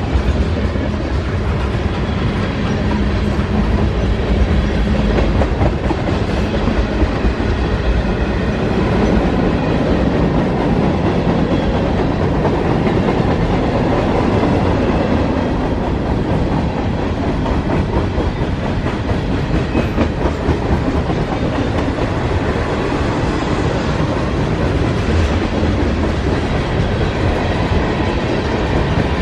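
A mixed freight train's cars rolling past at steady speed: a continuous loud rumble with the clickety-clack of steel wheels on the rails.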